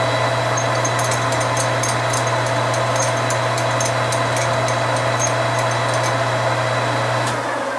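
Metal lathe running steadily while drilling into leaded 12L14 steel, with light irregular ticking from the cut. The lathe is switched off near the end and its hum dies away.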